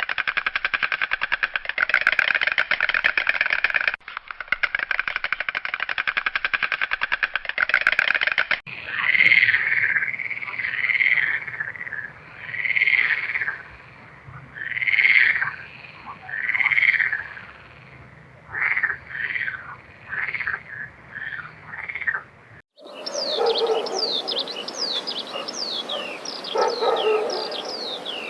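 A sequence of animal calls from separate recordings. First comes a fast, even pulsing trill for about eight seconds. Then a series of short calls repeats every second or two, and near the end there are rapid chirps with quick falling whistles.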